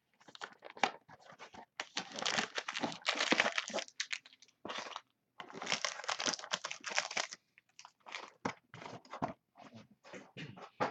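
Trading-card packaging being torn open and handled: plastic wrap crinkling and tearing in two longer bursts, with scattered short crackles between.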